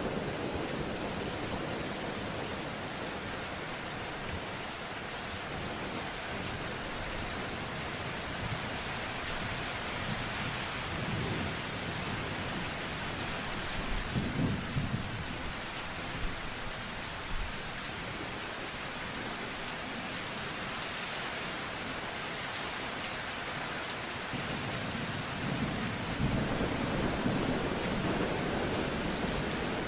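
Steady heavy rain with low rolls of thunder, one about halfway through and a longer one near the end.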